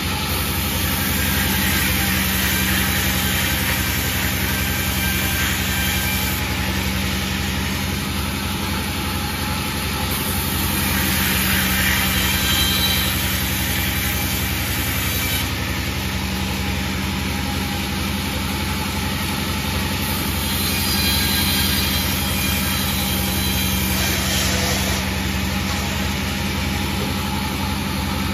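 Panda 36 sawmill running steadily under power, a continuous engine-driven hum with a few gentle swells in level.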